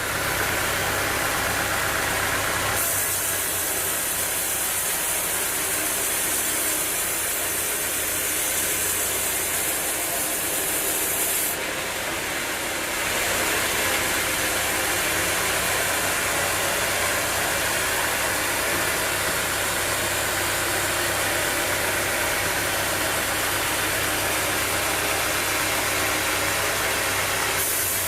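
Sawmill machinery running steadily: a continuous mechanical roar with a strong high-pitched noise that shifts a few times, about 3 s in, around 12 to 13 s in and near the end.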